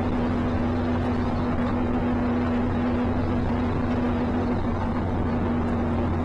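Steady in-cabin noise of a car driving, engine hum and road noise picked up by a dashboard camera, with an unchanging low drone and a steady tone above it.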